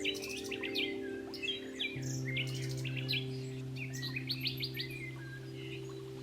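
Songbirds chirping and twittering in many short phrases and quick trills, over soft sustained background music whose low note changes about two seconds in.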